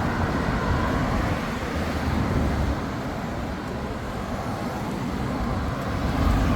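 Freeway traffic going past: a steady roadway noise with a heavy low rumble that swells and fades.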